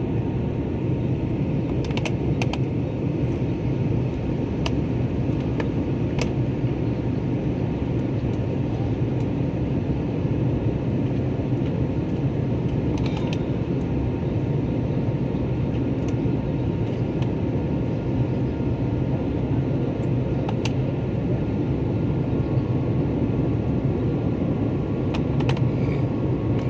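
Steady cabin roar of an Airbus A320, its jet engines and airflow heard from inside the passenger cabin, with a faint steady hum and a few light clicks.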